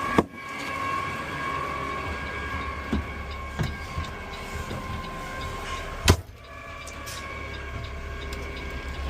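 Peterbilt 520 automated side-loader garbage truck working, heard from the cab: a steady whine over the engine rumble, with two loud bangs, one just after the start and one about six seconds in, and a few lighter knocks between.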